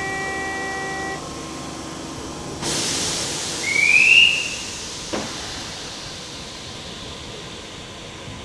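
A Kintetsu electric train standing at the platform: a steady tone ends about a second in, then a sudden loud hiss of released air that slowly fades away, with a short rising whistle-like tone in the middle and a single sharp knock just after.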